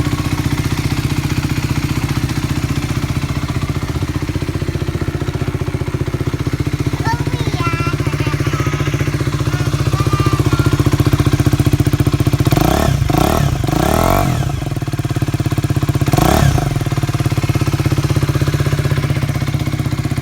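Aprilia RS4 motorcycle with a Scorpion aftermarket exhaust idling steadily, then revved in a few quick throttle blips about twelve to fourteen seconds in and once more about sixteen seconds in, before settling back to idle.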